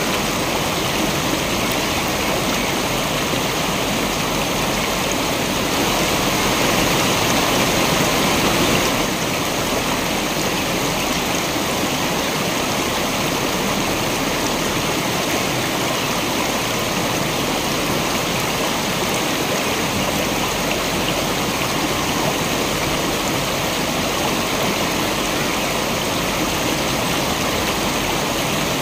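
Waterfall: water falling and rushing as a dense, even hiss with no breaks. It swells a little louder for a few seconds about six seconds in.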